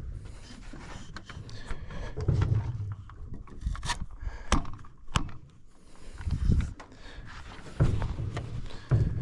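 Irregular knocks and a few sharp clicks, with dull low thumps in between: hands-on handling of a dock piling's chain and ABS pipe extender.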